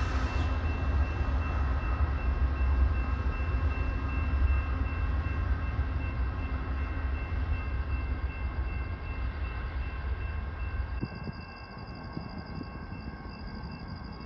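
Passenger train with a GE Genesis P42DC diesel locomotive running as it moves away: a steady heavy low rumble with a thin steady whine above it. The rumble drops off sharply about eleven seconds in as the train recedes.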